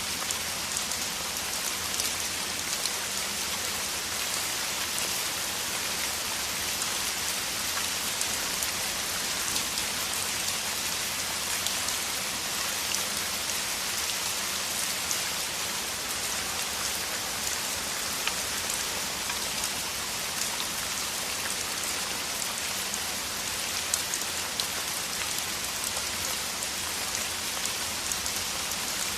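Heavy rain falling steadily, a dense even hiss of drops with many individual drop hits ticking through it.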